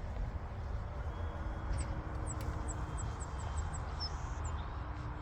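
Faint, steady hum of a distant electric RC aerobatic plane (Seagull Models Super Decathlon) in flight, under low wind rumble on the microphone. A bird gives a quick run of short, high chirps in the middle.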